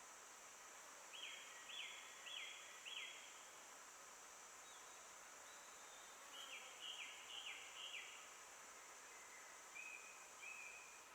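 A forest songbird sings two phrases of four quick falling notes, then gives a few short even whistles near the end. A steady high hiss runs underneath.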